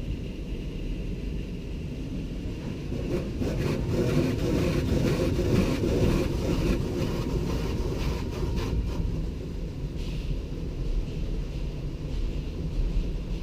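Automatic car wash machinery working over a car: a steady low rumble of wash equipment, swelling louder and busier from about three to nine seconds in, then easing.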